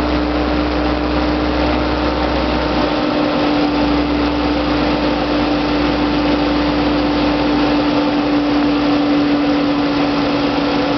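Ford 393 Windsor stroker V8 with FAST fuel injection idling steadily on its first run after a rebuild, settled into an even idle.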